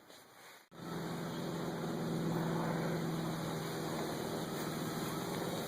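Near silence, then, starting abruptly under a second in, a steady machine drone: an even low hum over a background hiss, holding level without change.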